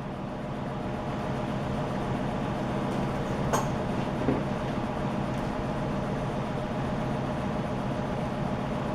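Brazing torch running with a steady rushing hiss that builds over the first second or two, with a couple of faint clicks in the middle.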